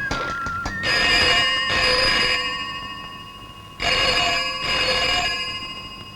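Telephone bell ringing in two long rings about a second and a half apart, each fading away after it stops.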